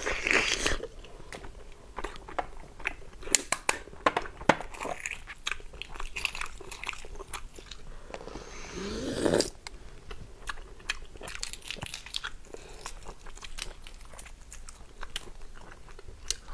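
Close-up mouth sounds of eating a half-hatched chicken egg (maodan): chewing with many wet clicks and smacks. A longer slurp, rising in pitch, comes about eight to nine seconds in as the contents are sucked from the shell.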